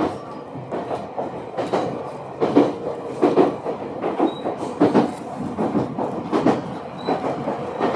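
Ueda Electric Railway electric train heard from inside the car while running, the wheels clacking over rail joints in a regular beat a little more than once a second over a steady rumble.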